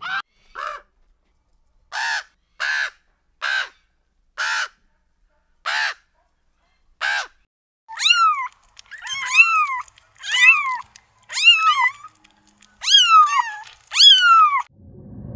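A bird calling over and over with harsh, crow-like caws: first about six short harsh calls roughly a second apart, then a quicker run of longer calls that rise and fall in pitch.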